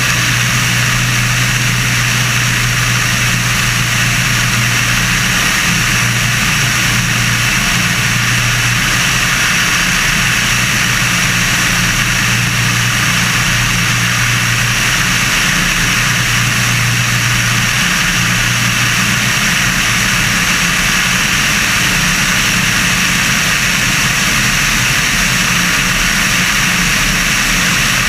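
Sonerai's air-cooled Volkswagen-based flat-four aircraft engine and propeller running at steady power during its break-in flights, a constant low drone under a steady hiss of wind.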